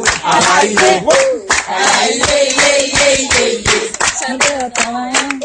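A group singing a French folk song together, with hands clapping along in a steady rhythm.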